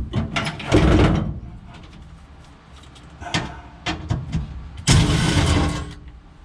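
Knocks and clatters of tools and metal parts being handled, loudest in the first second, then a rough scraping rush lasting about a second near the end as a part is moved out of the way to reach a bolt.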